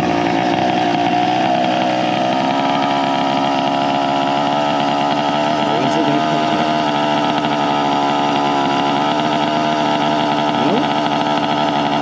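Two-stroke engine of a Rovan RF5 1/5-scale RC rally car running steadily at a near-constant pitch, a buzzy petrol single with no revving.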